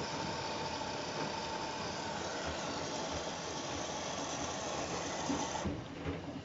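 Washing machine running with a steady rushing hiss that cuts off suddenly near the end, followed by a few knocks.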